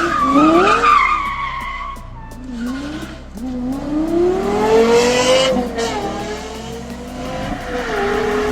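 Lexus LFA's naturally aspirated V10 revving: the pitch rises briefly, drops, climbs again for about two seconds to a high peak near the middle, then falls away and holds steady near the end.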